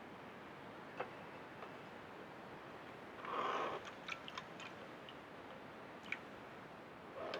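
Hooded crow at a dish-lid bird bath: a few sharp taps and clicks, typical of its beak striking the dish as it pecks and drinks, with two short noisy bursts, one a little past the middle and one at the end.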